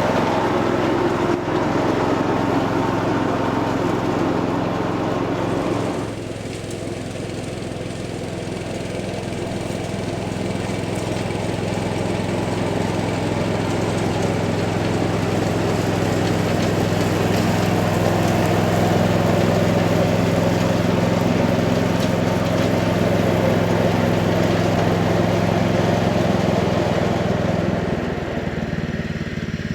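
1978 Cub Cadet 1000 garden tractor engine running steadily while mowing, with an abrupt change in the sound about six seconds in and a gradual rise in loudness after that.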